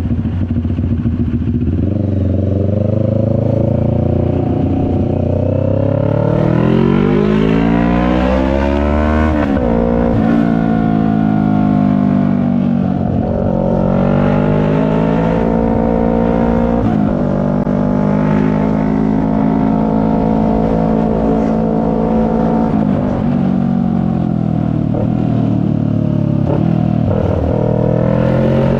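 CFMoto 400NK motorcycle's parallel-twin engine pulling hard, rising in pitch through the gears with sharp drops at upshifts about a third of the way in. It then holds a steady cruise, eases off and pulls up again near the end, over low wind rumble on the helmet-mounted microphone.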